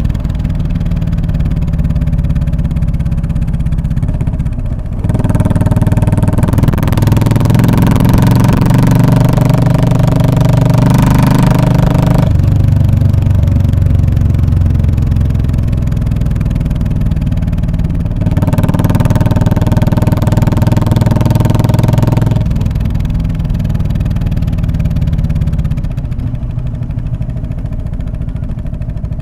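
Royal Enfield Classic 500 single-cylinder engine running through an aftermarket British-style muffler while riding, the exhaust note getting louder under throttle about five seconds in, easing off around twelve seconds, opening up again around eighteen seconds and backing off a few seconds later.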